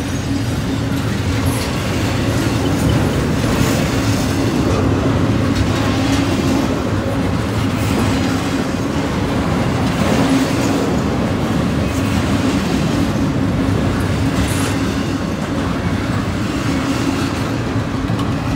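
Norfolk Southern double-stack intermodal freight train rolling past: a loud, steady rush of wheels on rail with an occasional clack and a steady low tone running through it. The cars run with their brake shoes applied, hot enough to smell burning.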